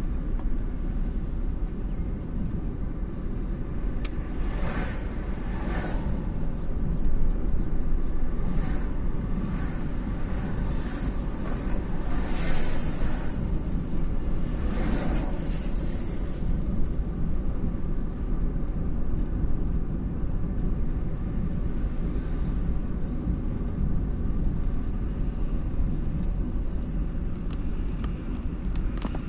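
Road traffic: a steady low rumble of car and tyre noise, with several vehicles passing by one after another in the first half.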